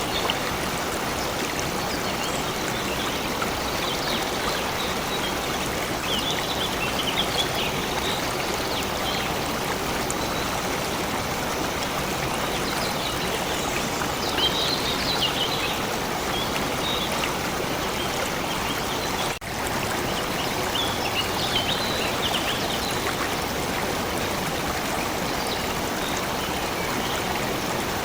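Steady rushing of a stream, with short bursts of high bird chirping several times over it. The sound briefly drops out for a moment about two-thirds of the way through.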